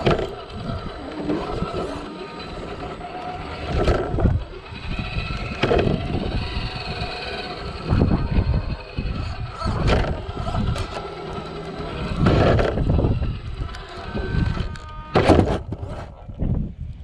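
Traxxas TRX-4 RC crawler's electric motor and gearbox whining in uneven spurts, with low rumbling bumps in between.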